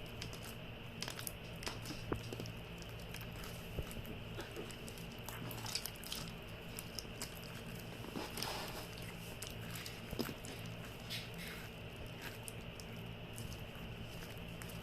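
Hands kneading freshly activated homemade slime: irregular small sticky clicks and pops as it is squeezed and pulled.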